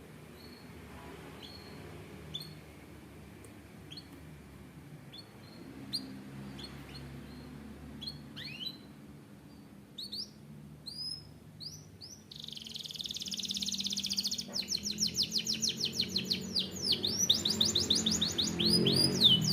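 Canary singing: scattered short high chirps at first, then about twelve seconds in a loud, fast rolling trill that breaks into repeated falling notes.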